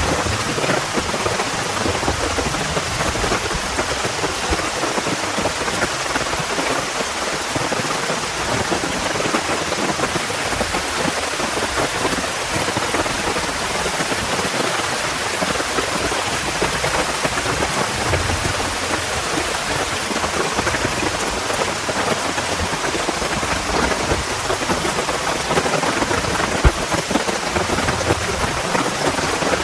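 Steady heavy rain, with low rumbles of distant thunder now and then and a single sharp tap near the end.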